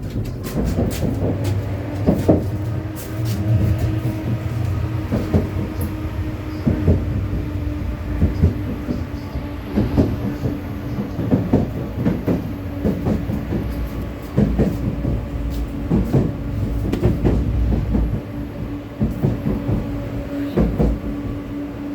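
Vityaz-M low-floor tram running along the track: the wheels knock over rail joints and crossings in an uneven rhythm over a low rumble, with a steady hum from the drive.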